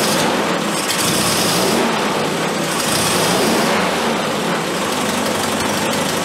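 Triumph Spitfire four-cylinder engine running on twin SU carburettors while the throttle is worked by hand, with two stretches of louder hiss in the first half. One carburettor's throttle is sticking, so the idle hangs up higher.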